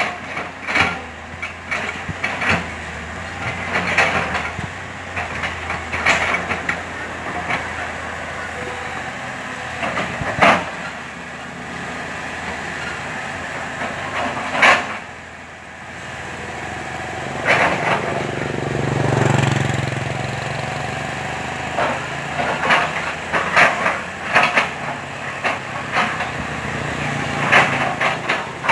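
Komatsu hydraulic excavator at work: its diesel engine runs steadily under many sharp knocks and clanks. About two-thirds of the way through, the engine swells louder for a few seconds as it takes load.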